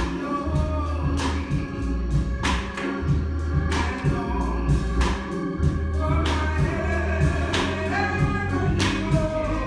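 Gospel congregational singing: a church congregation singing together over a low bass accompaniment, with a sharp beat about every second and a quarter.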